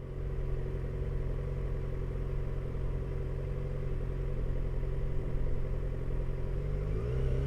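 Motorcycle engine running at a steady pitch, which starts to rise near the end as the bike accelerates.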